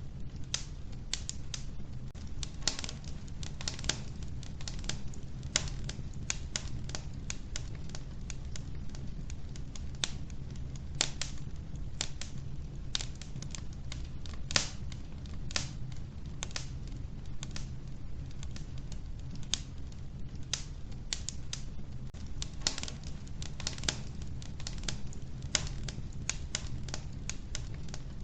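Wood fire in a wood-burning stove crackling: many sharp, irregular pops and snaps over a steady low rumble of the burning.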